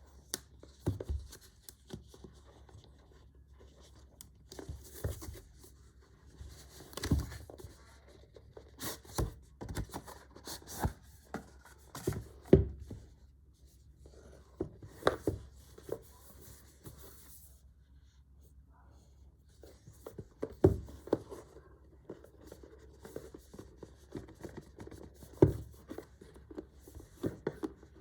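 Hands handling in-ear monitor packaging and accessories: irregular rustling and scraping, with sharp clicks and taps as pieces are picked up and set down, and a short quieter pause just past the middle.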